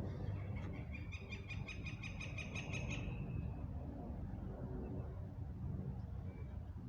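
A bird's rapid, evenly pulsed trill of about ten notes a second, lasting about two seconds, over a steady low outdoor rumble. A faint single note follows near the end.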